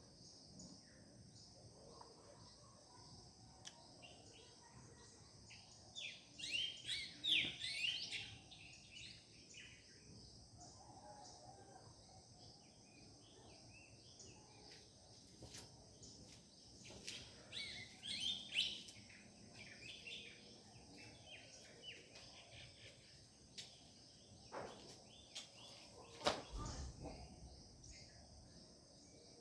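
Several wild birds chirping and trilling in a morning dawn chorus, busiest in two bursts about six and seventeen seconds in, over a steady high hiss. A brief low thump near the end.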